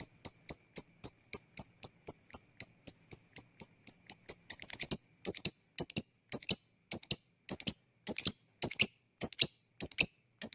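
Lovebird giving its sharp, ticking 'ngetik' call, a rapid train of high chirps at about four a second. After about five seconds it slows into spaced double chirps.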